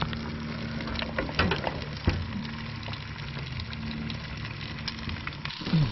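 Brown trout sizzling as it fries on a portable grill: a steady hiss with a low steady hum underneath, and a few light knocks about one to two seconds in.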